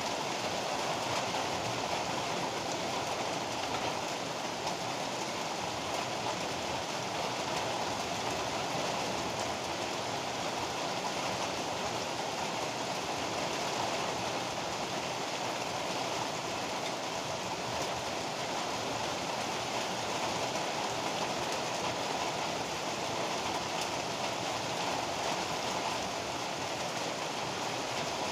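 Heavy rain pouring down steadily, an even, unbroken rush of noise.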